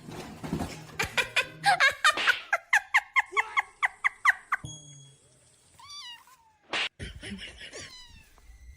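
A cat meowing: a quick run of about ten short, high calls, about four a second, then a few longer meows that fall in pitch. A brief loud noisy burst comes near the end.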